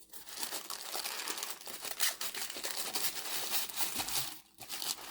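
Packaging crinkling and rustling as it is handled and pulled open, a steady crackle of many small clicks with a short lull near the end.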